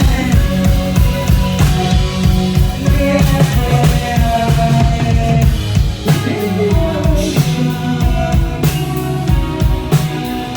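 Live rock band playing an instrumental passage: a drum kit beating a steady, rapid rhythm of kick and snare under sustained guitar and bass, with no singing.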